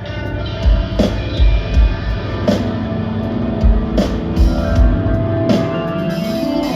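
Live rock band playing an instrumental passage, with a drum kit hitting heavily about every second and a half under guitar and held tones.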